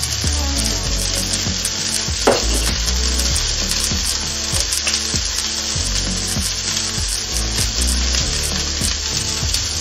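Broccoli frying in hot oil in a nonstick frying pan, a steady sizzle, with one sharp knock a little over two seconds in.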